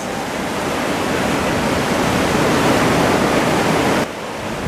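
Ocean surf breaking and washing over beach rocks: a loud, steady rush of water noise that drops a little about four seconds in.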